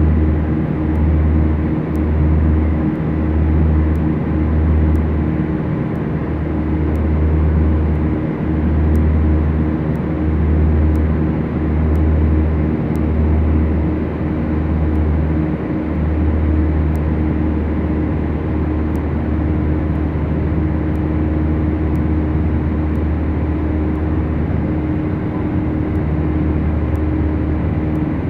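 The Beechcraft Duchess's twin engines and propellers drone steadily in the cockpit. For the first half the low drone swells and fades about once a second, the beat of two propellers slightly out of sync, and then it settles into a steady drone. Faint regular clicks sound about once a second.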